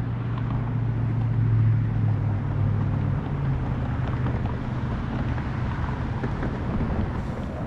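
Steady low rumble and hum of a car running, with road noise; the hum eases slightly about three seconds in.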